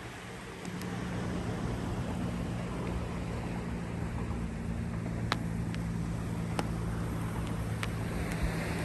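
A steady low engine-like hum from a vehicle sets in about half a second in and holds at an even pitch, over a haze of wind noise, with a few faint sharp clicks.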